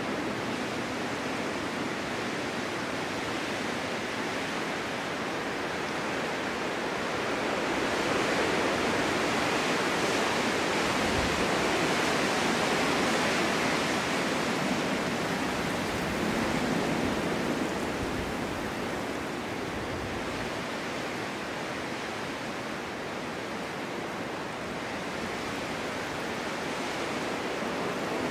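Snowstorm wind blowing steadily, a smooth rushing noise that swells for several seconds around the middle and then eases.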